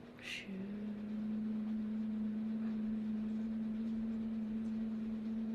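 A steady low hum held at one pitch, starting about half a second in after a short hiss.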